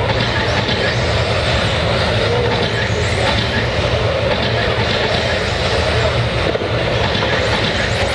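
Several electric RC stadium trucks with 13.5-turn brushless motors racing laps on a dirt track: a steady, unbroken drone of motors, gears and tyres.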